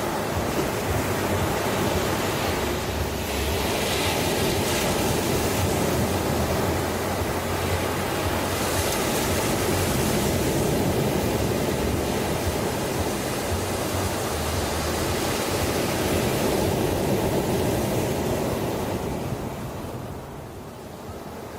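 Ocean waves washing onto a shore, a steady surf hiss that swells as breakers wash in and eases off near the end.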